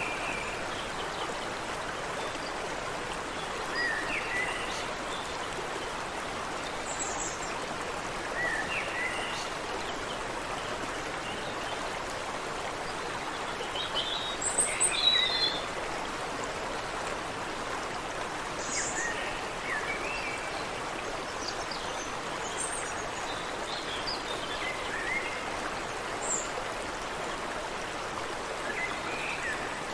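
Steady rush of water flowing in a creek, with birds calling in short chirps and whistles every second or two over it; a busier burst of calls about halfway through.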